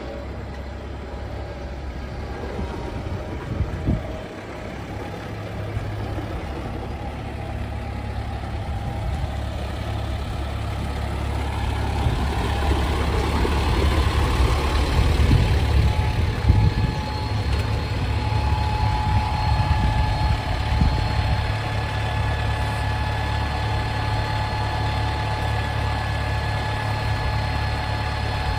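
Kubota M6-131 tractor's diesel engine running steadily. It grows louder through the first half, with a single knock about four seconds in, and a thin steady whine joins in the second half.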